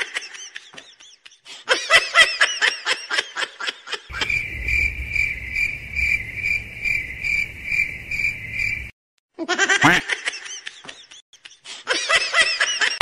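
Bursts of high squealing laughter. It breaks off for about five seconds for a steady high chirping tone that pulses about twice a second over a low rumble, then near the end a baby giggles and squeals.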